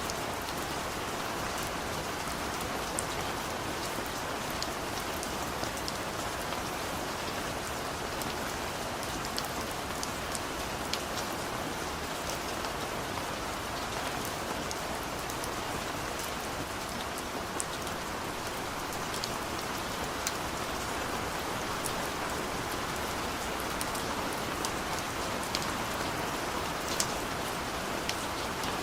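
Steady heavy rain falling, an even rushing hiss with scattered individual drops ticking sharply on top.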